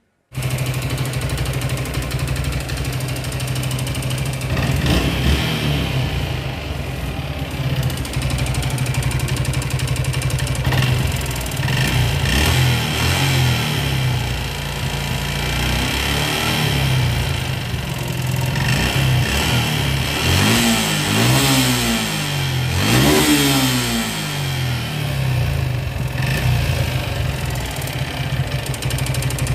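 Suzuki Gixxer FI motorcycle engine running with a steady idle, blipped up and back down several times, the biggest revs about two-thirds through. It has had a bad noise since it ran short of oil while being ridden, which the mechanic says could come from a seizing piston, a cam rocker problem or a worn connecting rod.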